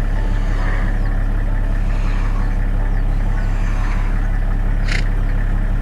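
Cat purring: a steady, deep, rapidly pulsing rumble.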